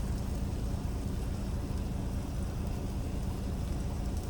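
Steady low rumble and hum of an idling diesel semi-truck engine, with a light hiss over it.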